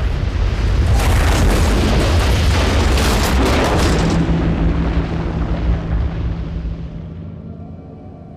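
Avalanche: a deep rumble with a hissing rush of snow that swells about a second in, then dies away over the last few seconds. A low steady tone of background music comes in about halfway through.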